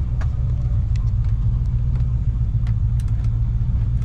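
Volvo Penta sterndrive boat engine idling steadily out of the water, fed cooling water by a garden hose during its first start of the season, with a few light ticks over the steady rumble.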